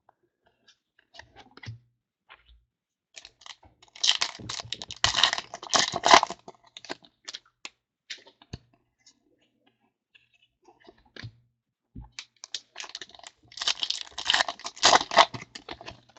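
Foil trading-card pack wrappers being torn open and crinkled, with cards shuffled and flicked, in two bursts of a few seconds each and small clicks of card handling between them.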